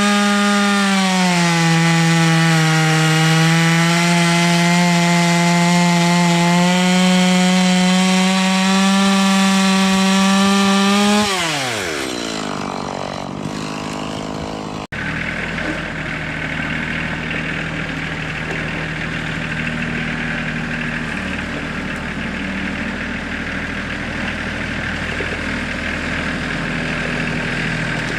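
Chainsaw running at high revs through a cut, its pitch dipping briefly about a second in, then winding down steeply about eleven seconds in. After an abrupt break, a steady low engine hum follows.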